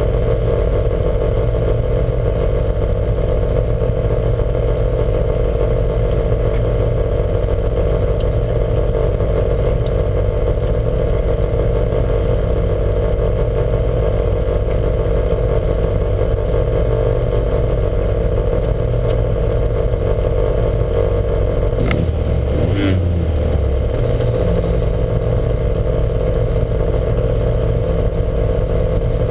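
Lancia Montecarlo race car's engine running at a fairly steady speed, heard on board, with clatter over it. The uploader says this car has a huge misfire. Two sharp clicks come a little over twenty seconds in, and the engine note shifts briefly around them.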